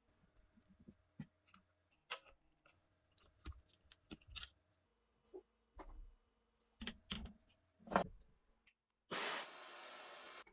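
Scattered sharp clicks and knocks of small metal parts being handled, as when a rusty AR-15 is taken apart. About nine seconds in comes a steady hiss, loudest at its start, which lasts about a second and a half and cuts off suddenly.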